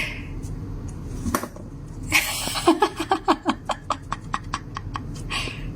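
A person laughing in a quick run of short 'ha-ha' bursts that trail off into breathy, clicking gasps.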